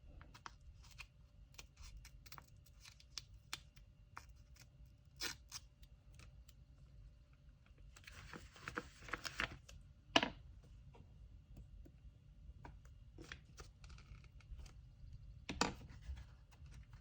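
Hands packing an order: light taps and clicks of items and supplies being handled, with a stretch of paper rustling and tearing about eight seconds in and two sharper knocks, one about ten seconds in and one near the end.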